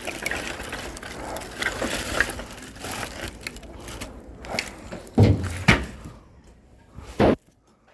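Split oak firewood knocking and clattering as logs are handled and stacked, in an irregular run of knocks with a few heavier thuds past the middle.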